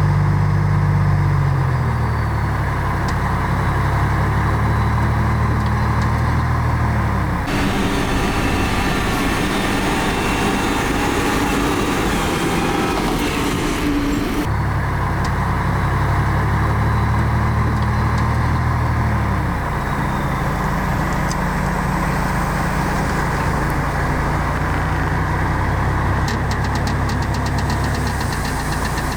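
Heavy diesel earthmoving machinery running, the engine note dropping in pitch twice. A rougher, noisier stretch comes in the middle.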